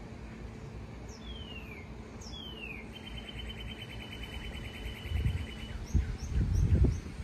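A bird calling: two falling whistles, then a fast steady trill lasting nearly three seconds, then a few short high chirps. Low thumps and rustling are the loudest sound near the end.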